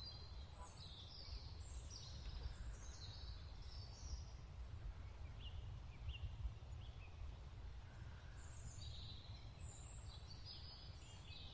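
Songbirds chirping and whistling faintly in short, falling phrases that come in three spells with brief gaps, over a low steady rumble.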